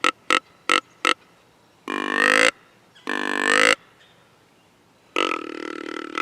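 Flex-tube deer grunt call on its deepest setting, blown to imitate a mature buck. It gives four short clipped grunts, then two longer grunts, then a long drawn-out grunt that starts about five seconds in.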